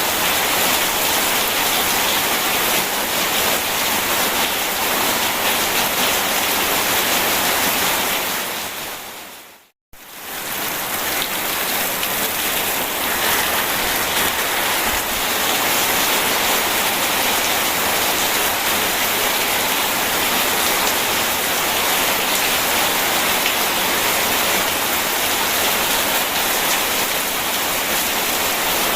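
Steady heavy rain with rushing river water, an even hiss. About eight seconds in it fades away to a brief silence, then cuts back in suddenly at full level: the splice where the recording loops.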